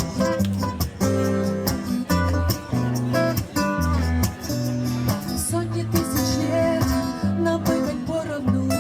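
Live song accompaniment with strummed acoustic guitar playing steady chords.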